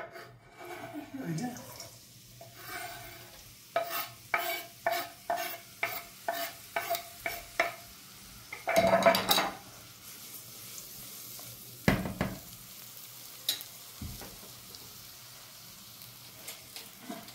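Chopped leeks frying in hot oil in a pot: a run of about a dozen quick knocks of a utensil stirring against the pot, about two a second, then a louder burst of sizzling, a couple of clunks, and a steady frying hiss.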